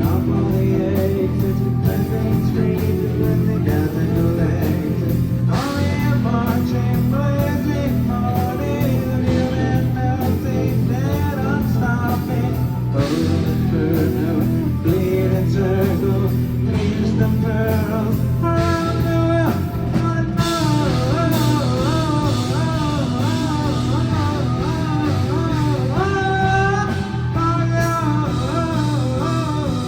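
Live rock band playing a song. A steady band groove runs throughout, and from about six seconds in a lead melody, sung or played, bends and wavers in pitch over it.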